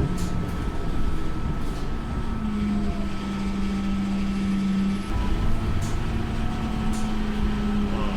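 Scania K230UB bus's five-cylinder diesel engine running steadily under way, its note shifting slightly about halfway through, with a faint steady whine and a few light rattles.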